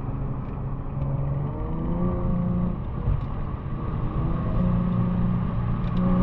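Infiniti G37's 3.7-litre VQ37VHR V6 with its muffler and resonator deleted, exhaust note rising in pitch as the car accelerates, dipping about three seconds in, then climbing again.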